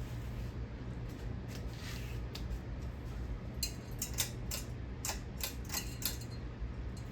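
Hunter low-profile ceiling fan running, with a steady low motor hum. A run of irregular light clicks and ticks comes in about the middle.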